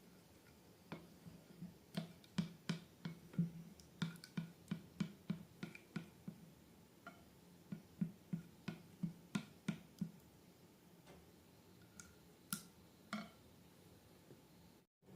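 Slime being worked by hand, a quick series of small, sharp clicks and pops, two or three a second, thinning out after about ten seconds.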